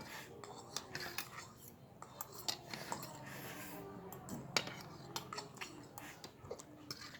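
Cutlery clinking and scraping against a bowl while eating noodles, a run of irregular sharp clicks. Faint voices can be heard in the background.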